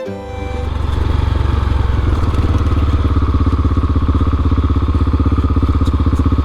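Single-cylinder adventure motorcycle engine running steadily and close by, with a fast, even pulse. It comes up over the first second and then holds.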